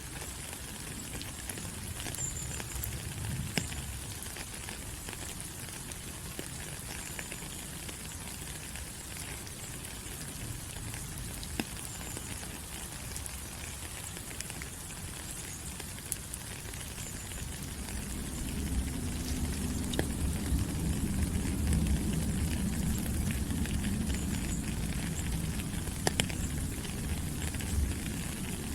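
Steady rain falling on rainforest leaves: an even hiss with many scattered drips and pattering ticks. About two-thirds of the way in, a low rumble swells up under the rain and stays.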